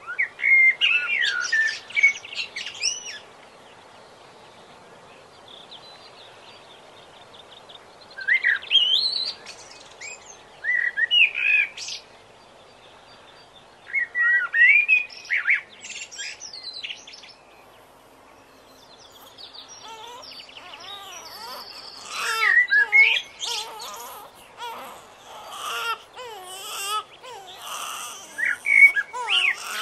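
Birds chirping and singing in short phrases of two to three seconds with pauses between them, over a steady low hiss. In the last third the calls become denser and overlap.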